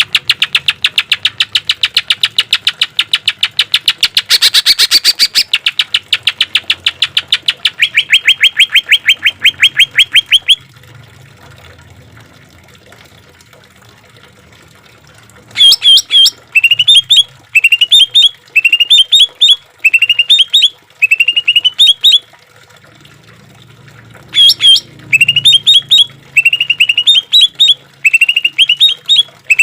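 Green leafbird (cucak ijo) song: a fast, loud rattling series of notes that ends in a run of even, steady notes. After a few seconds' pause come repeated phrases of short rising notes, about one phrase a second, in the bird's harsh 'rough' song style.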